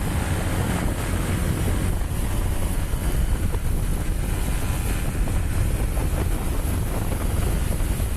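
Wind buffeting the microphone while riding a moving motorbike, a steady low rumble with no distinct events.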